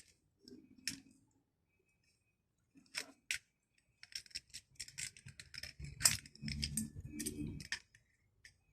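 Sharp clicks and metallic clinks of hand tools and small parts being handled: a few single clicks, then a quick, irregular run of them from about four seconds in.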